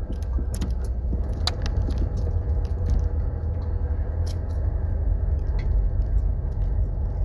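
Car driving along a rough country lane: a steady low rumble of engine and tyres with frequent small rattles and clicks.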